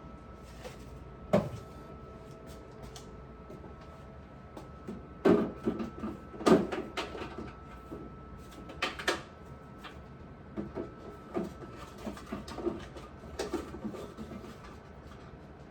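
Scattered knocks and clatters of hard objects being handled and set down, busiest about five to seven seconds in, over a faint steady hum.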